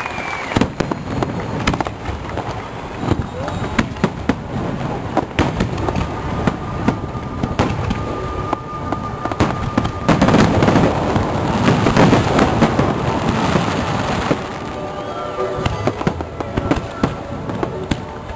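Aerial fireworks exploding in quick succession, one bang after another. About ten seconds in, a dense crackling barrage builds up and is the loudest part, then it drops back to separate bangs about four seconds later.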